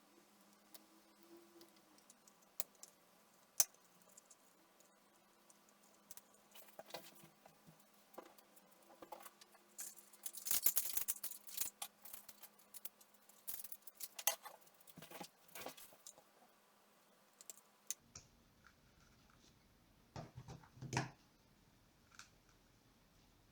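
Faint clicks, taps and scraping of small hard objects being handled, busiest in a run about ten to sixteen seconds in, over a faint steady hum that stops abruptly about eighteen seconds in.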